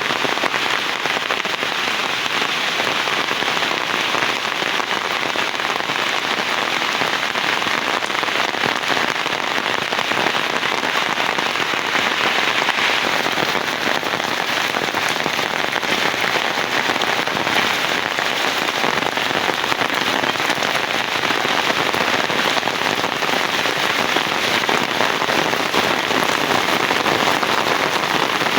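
Heavy rain falling steadily, a dense unbroken hiss of drops without any thunder claps.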